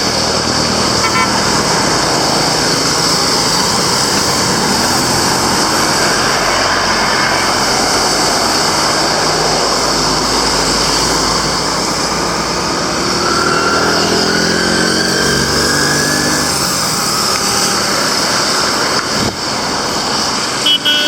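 Road traffic passing close by, steady and loud. About two-thirds of the way through, one vehicle's engine rises in pitch as it speeds past. A brief horn toot sounds near the end.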